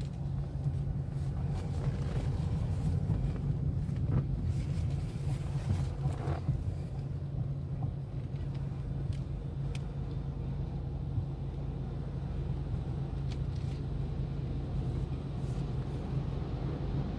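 Steady low mechanical hum of an automatic tunnel car wash with a car running in it, with a few faint knocks about 4 and 6 seconds in.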